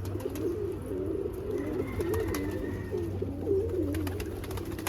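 Domestic pigeons cooing in a loft: several birds' low coos overlapping without a break, with a few scattered clicks.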